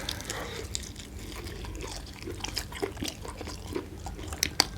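Close-miked eating of roast chicken: scattered small wet clicks and crunches of biting and chewing, over a low steady hum.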